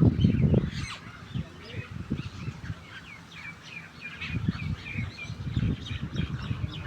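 A group of starlings and mynas calling while they feed: many short overlapping chirps and whistles. Low rumbling bursts run underneath, loudest in the first half-second and again from about four seconds in.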